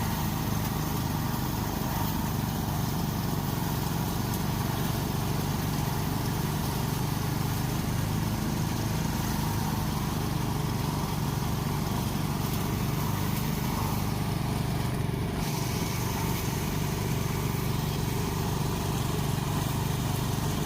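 A small engine running steadily at one constant speed, with no revving.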